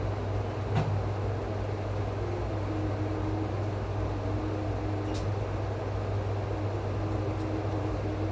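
Steady low machine hum with a faint wavering tone above it. A short click comes just under a second in, and another about five seconds in.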